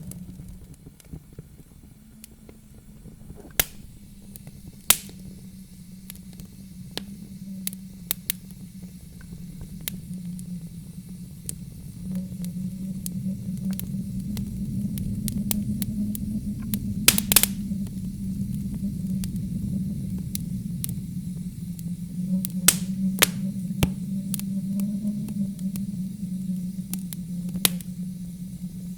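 Low wind blowing and gusting, swelling and easing, with a wood fire crackling over it: irregular sharp pops, the loudest cluster about 17 seconds in.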